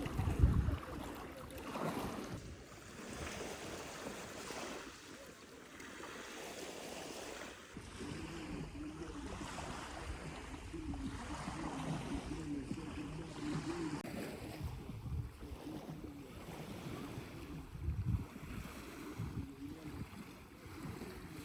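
Surf washing on a beach, with wind buffeting the microphone in gusts about half a second in and again near the end.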